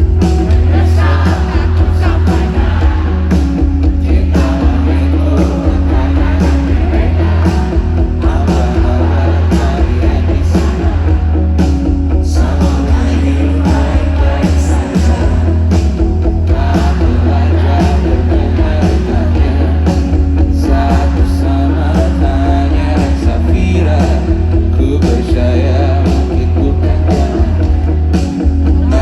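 Live pop-rock band playing loudly, with a heavy, booming bass, steady drum hits and singing.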